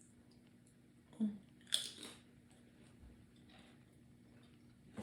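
A person biting into and chewing a slice of homemade meatless pizza, with a few short crunches of the crust about one to two seconds in and quiet chewing between them.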